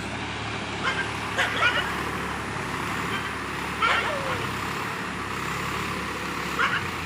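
Swaraj 744 FE tractor's three-cylinder diesel engine running steadily, with a few brief, sharp higher-pitched sounds over it about one, one and a half, four and six and a half seconds in.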